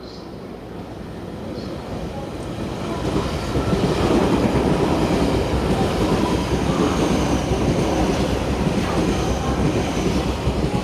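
A Taiwan Railways train passing close by on the track, growing louder over the first few seconds, then running loud and steady.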